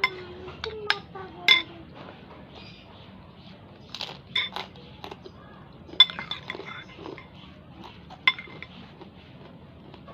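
Cutlery clinking against a dish while eating instant noodles: about half a dozen sharp, ringing clinks spaced irregularly a second or more apart.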